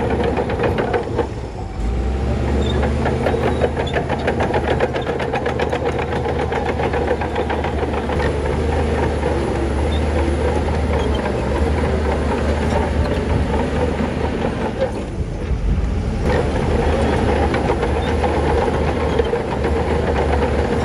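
Heavy diesel engine of earthmoving machinery running steadily with a fast, even firing beat. It drops briefly about a second in and again about three quarters of the way through.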